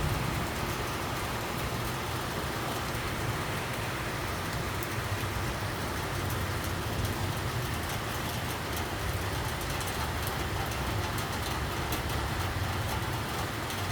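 Rain falling steadily, an even hiss with faint scattered drop ticks over a constant low rumble.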